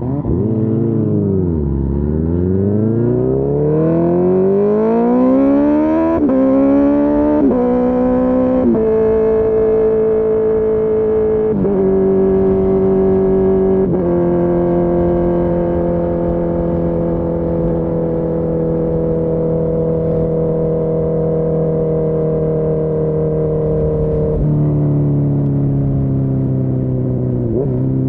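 Honda CB1000R's inline-four engine through a full Akrapovic exhaust, heard from the rider's seat. It pulls away with the revs climbing, upshifting quickly several times, each shift a sudden drop in pitch, then runs at a steady cruise for most of the stretch, with one more upshift and a brief dip in revs near the end.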